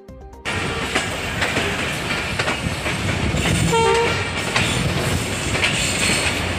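Moving passenger train, heard from a coach window: steady rumbling with irregular clicks of the wheels over the rail joints. A short horn blast sounds about four seconds in. The sound starts abruptly about half a second in.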